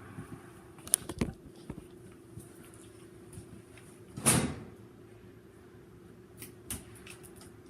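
Handling sounds from hands-on electrical work: a few sharp clicks and knocks, and one louder short noisy burst about four seconds in, over a faint steady hum.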